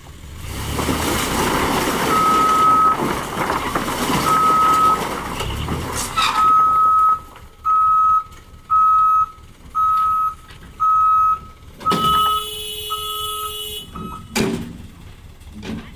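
A truck's reversing alarm beeps at one steady high pitch, about once a second, over the truck's engine running. Near the end of the beeping a harsher, many-toned sound joins it for about two seconds, followed by a few knocks.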